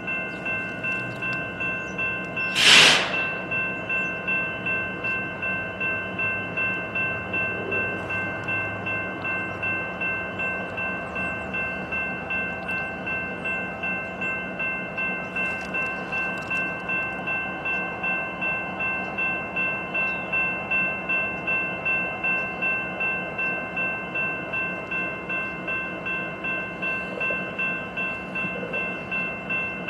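Trackside beside a stopped BNSF coal train: a steady ringing tone pulsing evenly about twice a second, with one short, sharp burst of hiss about three seconds in.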